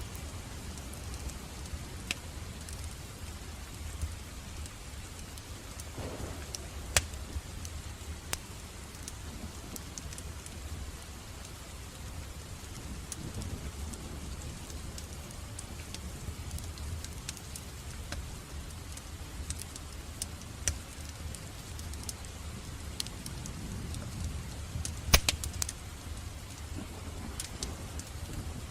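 Fireplace fire crackling, with scattered sharp pops, over a steady bed of rain and a low rumble; one pop near the end is the loudest.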